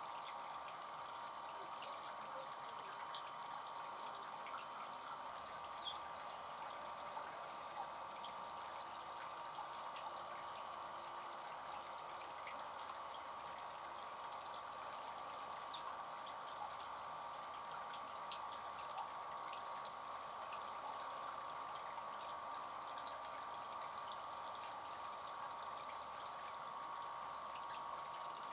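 Bird bath fountain running: steady trickling and splashing water, with many small drips falling into the basin.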